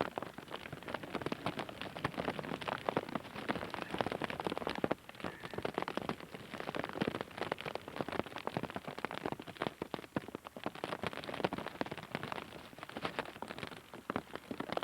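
Heavy rain falling, a dense, continuous patter of drops striking close by.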